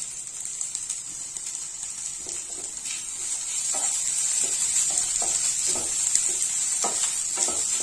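Chopped onions with freshly added crushed ginger, garlic and green chilli sizzling in hot oil in a nonstick frying pan, the sizzle growing louder as it goes. From about three and a half seconds in, a wooden spatula stirs the mixture in short scraping strokes.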